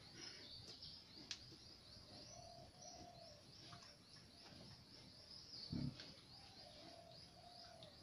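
Faint birdsong: a quick, steady run of short high chirps with a few longer, lower calls. One brief low sound stands out about three-quarters of the way through.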